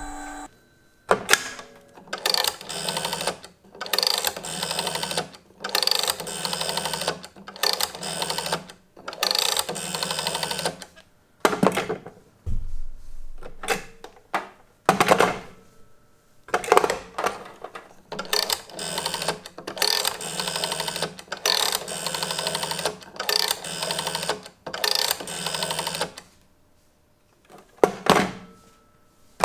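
Strowger telephone exchange switches stepping: repeated bursts of rapid mechanical clicking and rattling, each lasting a second or two with short pauses between, and a low thump about halfway through.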